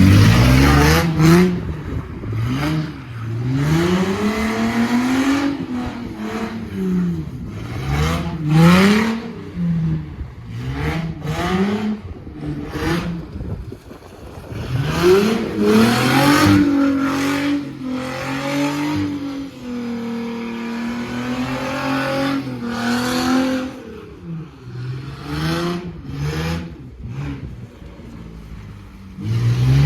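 Car engine revving up and down again and again during a burnout, with a longer stretch held at high revs about halfway through.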